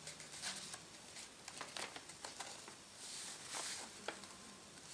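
Sheet of paper being pressed flat and creased by fingers: faint rustling and crinkling with scattered small ticks, and a louder rustle about three seconds in.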